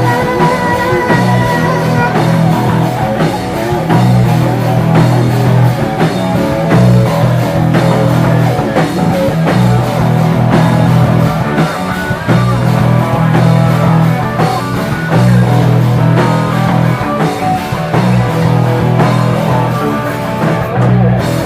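A live rock band playing loudly, an instrumental passage of guitar and drum kit with low notes shifting every second or two under a steady beat, and no vocals.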